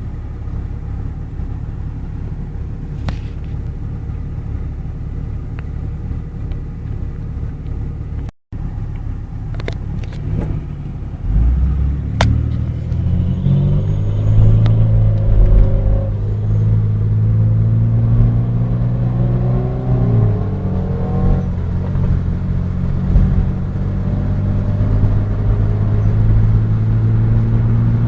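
Lotus Esprit's twin-turbo V8 heard through a cracked car window: a steady low rumble at first, then about eleven seconds in it gets louder and climbs in pitch as the car accelerates, dips once about twenty seconds in, and settles into a steady cruise. The sound cuts out for a moment about eight seconds in.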